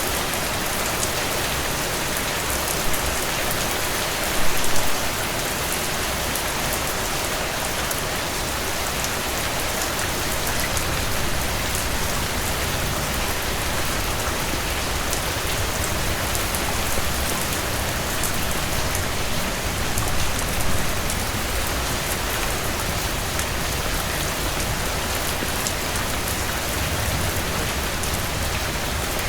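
Heavy rain falling steadily on a cabin porch, with scattered sharp ticks and two brief louder swells, about four and a half seconds in and again about twenty seconds in.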